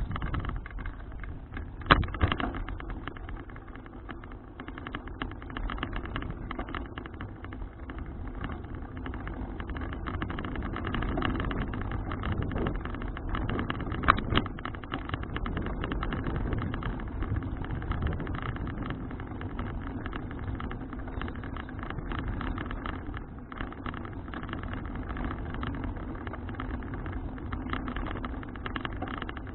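Steady rumble of road and wind noise from a folding bicycle being ridden, picked up by a bike-mounted action camera. Two sharp knocks or rattles stand out, one about two seconds in and another near the middle.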